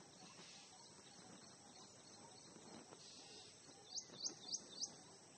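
Near silence with faint background hiss. About four seconds in, a bird chirps four quick times, each a short rising note.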